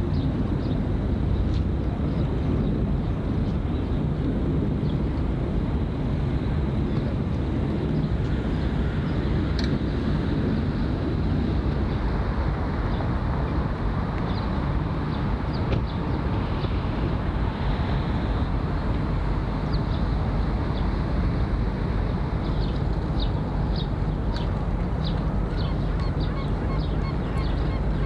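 A steady low engine rumble with no change over the whole stretch, joined by a run of short high chirps in the last few seconds.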